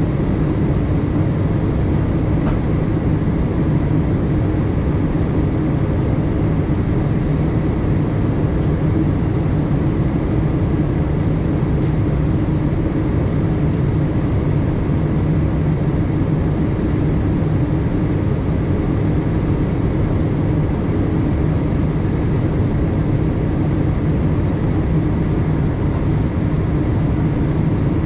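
Steady cabin drone of a Boeing 787-8 heard from a window seat: engine hum and airflow noise, even and unchanging.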